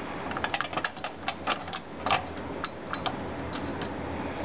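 Irregular small clicks and taps, a few a second, from hands working the CPU and parts of a desktop motherboard, over a faint steady hum.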